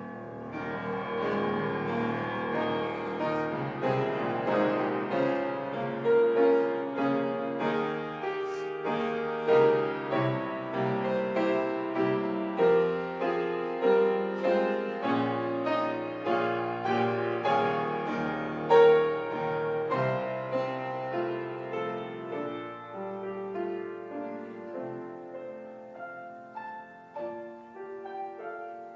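Piano playing an instrumental passage of many struck notes, growing softer over the last several seconds.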